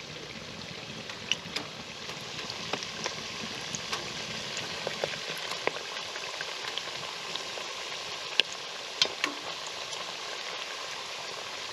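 Khuushuur (meat-filled pastries) frying in hot oil in a steel pot: a steady sizzling hiss with scattered sharp pops and spatters, the loudest two about eight and nine seconds in.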